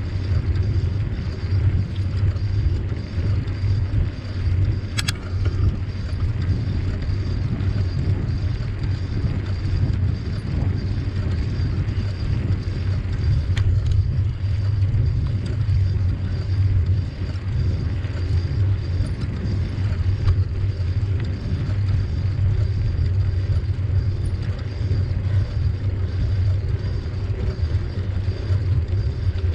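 Steady low rumble of wind buffeting the microphone and tyres rolling on the trail while riding a bicycle, with one sharp click about five seconds in.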